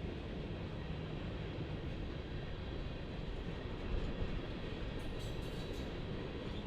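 Freight train cars rolling by on the rails, a steady low rolling noise with a few faint high clicks about five seconds in.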